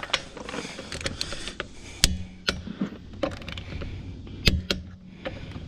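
Click-type torque wrench tightening lug nuts to 140 ft-lb, with small metallic clicks and two sharp clicks, about two and a half seconds apart, as the wrench breaks over at the set torque.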